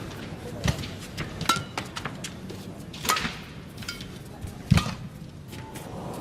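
Badminton rally: sharp racket hits on the shuttlecock and the squeak of court shoes, with the heavy thud of a player landing about four and a half seconds in.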